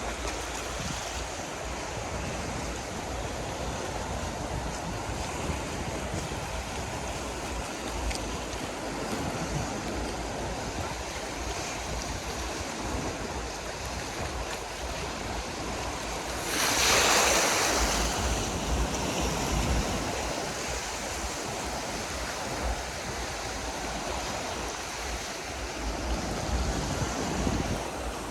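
Black Sea surf washing onto the shore in a steady wash, with one louder wave breaking about seventeen seconds in. Wind rumbles on the microphone.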